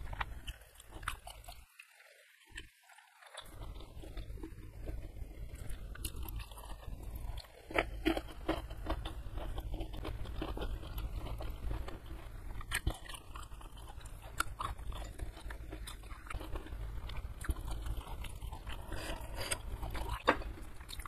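Close-miked chewing of a mouthful of food, wet mouth noises with scattered sharp clicks and bites. There is a short pause about two seconds in, and a steady low hum sits underneath.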